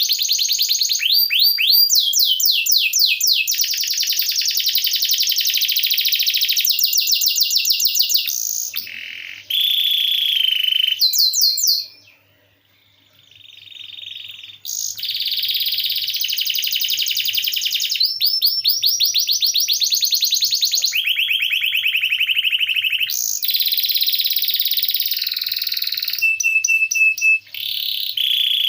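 Domestic canary singing a long song of fast rolling trills, the pattern switching to a new rapid phrase every few seconds, with a brief near-pause about twelve seconds in.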